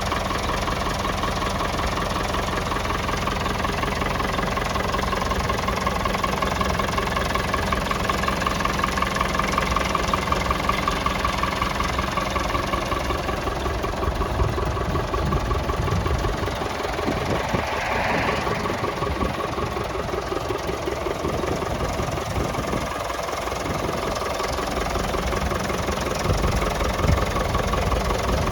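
Ferguson 35 tractor engine running steadily, with a brief higher-pitched sound about two-thirds of the way through.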